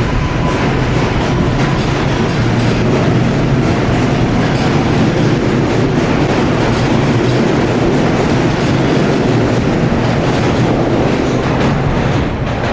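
New York City subway train running past, loud and steady, with wheels clattering over the rail joints.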